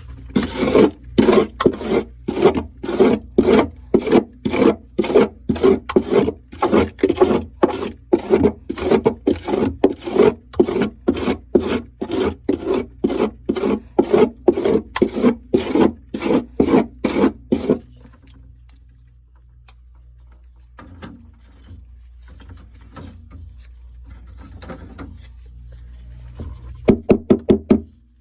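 Frost crunching in even rasping strokes, about two a second. The strokes stop about two-thirds of the way through, leaving a few faint scrapes, and start again near the end.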